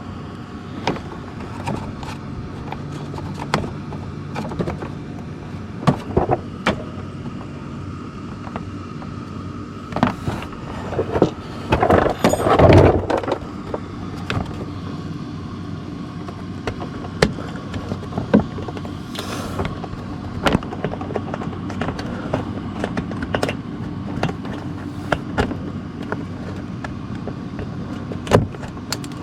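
Plastic splash guard being handled and fitted under a car: scattered clicks and knocks, with a louder, longer scraping rustle about twelve seconds in, over a steady low hum.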